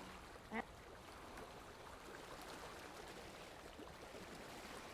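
Near silence: a faint steady background hiss with one short click about half a second in.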